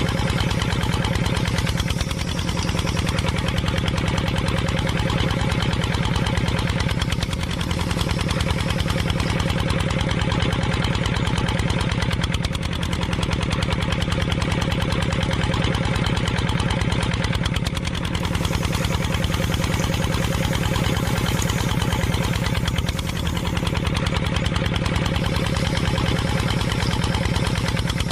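A small motor running steadily with a fast, even chatter, dipping slightly in loudness every few seconds.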